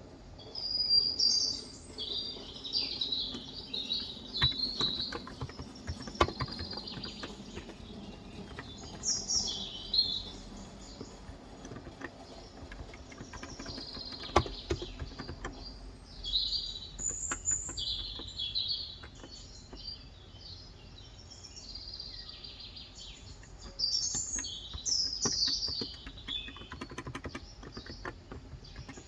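Birds chirping and twittering in short bouts of a second or two, several times over, above a faint steady background hum.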